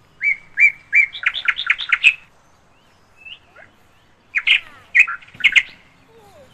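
A bird chirping: a quick run of sharp, repeated notes for the first two seconds, then a second, shorter run about four and a half seconds in.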